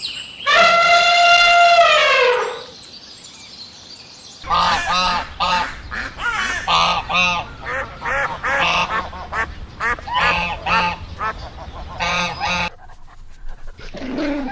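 Geese honking. A long call slides down in pitch for about two seconds near the start. From about four seconds in, a run of short repeated honks follows, roughly two a second, over a low steady hum.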